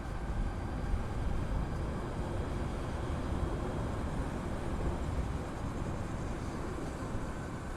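Steady wind rush and road noise at a chin-mounted helmet camera on a Harley-Davidson LiveWire electric motorcycle riding along, heaviest in the low rumble.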